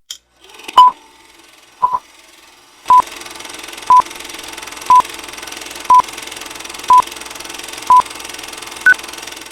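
Short electronic beeps at one steady pitch, about one a second, eight in a row, then a final beep at a higher pitch. A steady hiss sets in under them about three seconds in.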